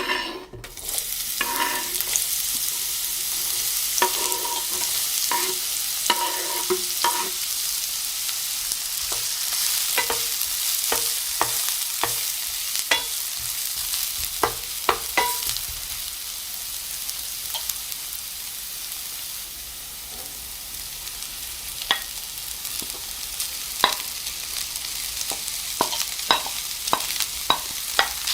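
Food frying in hot oil in a pan, starting suddenly with a loud sizzle and running on as a steady sizzle. A utensil stirs it, with sharp clicks against the pan throughout.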